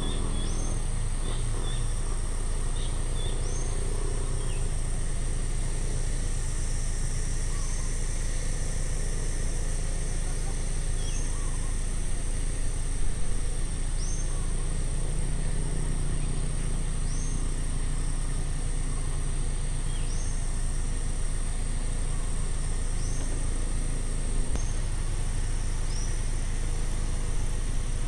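Outdoor nature ambience: a steady high insect drone, with a bird giving a short, high, upward-hooked call roughly every three seconds and a few quicker chirps in the first seconds, over a constant low rumble.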